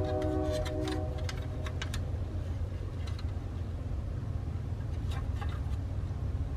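Train horn sounding a steady multi-note chord that cuts off about a second in, over the continuous low rumble of the passing train. Light clicks of hard plastic model-kit parts being handled come in a cluster near the start and again past the middle.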